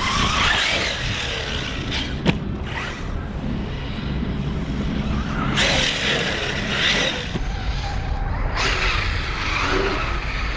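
Arrma Kraton 6S RC truck running off-road, with the whine of its brushless motor and the rush of tyres and wind, heard as several short clips cut together. There is a sharp knock about two seconds in.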